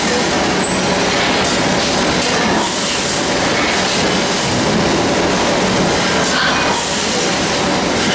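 Steady, loud running noise of a moving vehicle, holding an even level throughout.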